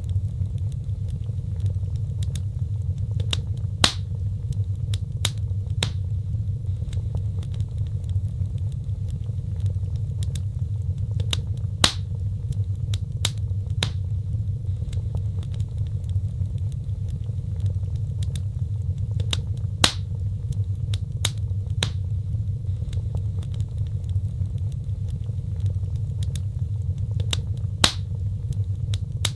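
Wood fire crackling in a fireplace: a steady low rumble of burning with scattered sharp pops and snaps, the loudest pops recurring about every eight seconds.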